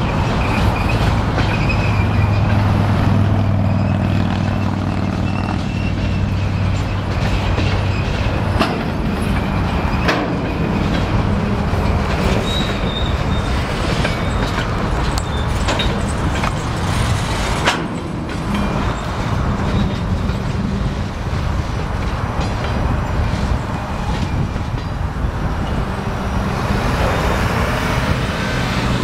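Freight cars rolling across a railway diamond crossing, their wheels clacking over the crossing's rail gaps every few seconds, with a faint high flange squeal now and then.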